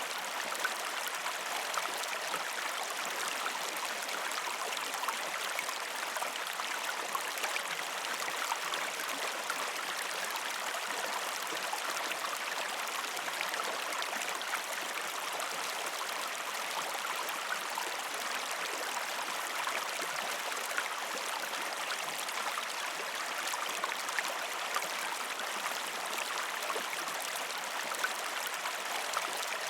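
Shallow river stream flowing over rocks, a steady rushing with fine splashing and gurgling throughout.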